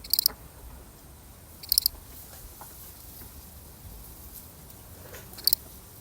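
A single cricket chirping: three short, high chirps, one at the start, one just before two seconds in and one about five and a half seconds in, spaced unevenly, over a faint low background rumble.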